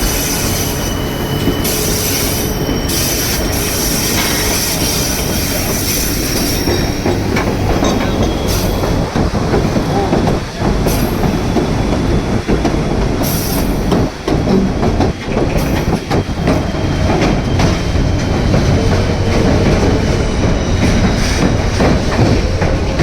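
White Pass & Yukon Route narrow-gauge train running on the rails: a steady rumble with wheel clatter. A thin, high squeal from the wheels is heard through roughly the first six seconds.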